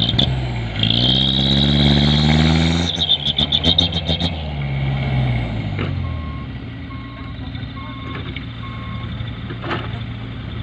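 Loaded dump truck's diesel engine revving up under strain, then winding down to a steady low run, followed by its reversing alarm beeping four times.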